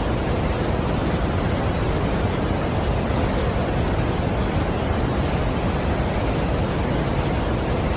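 Steady rushing roar of a large waterfall: an even, unbroken wash of noise, heaviest in the low end.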